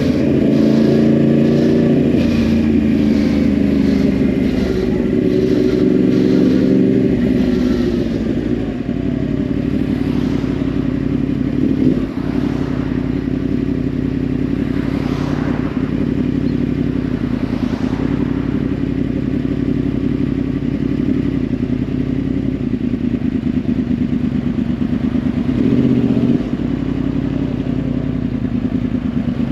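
2010 Yamaha R1's crossplane inline-four, through a Yoshimura exhaust, running under way. The engine pulls at higher revs for about the first eight seconds, then drops to a lower, steady cruising note, with a short rise in revs near the end.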